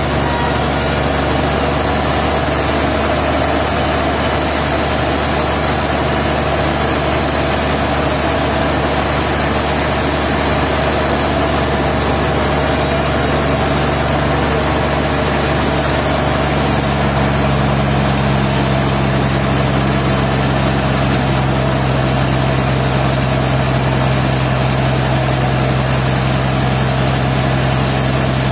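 Sawmill machinery running steadily with a constant low hum, its low tones growing stronger about halfway through.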